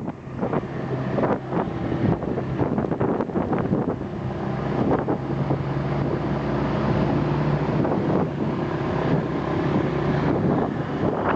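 Rental motor scooter's engine running steadily while riding, under heavy wind buffeting on the microphone.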